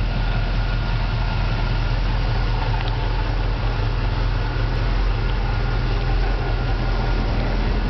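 Chevrolet small-block 350 V8 idling steadily through Flowmaster mufflers, an even low exhaust note with no revving.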